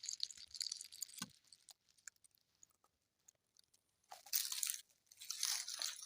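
Footsteps crunching on the forest floor: faint crackles at first, a quiet stretch, then two crisp steps about a second apart near the end.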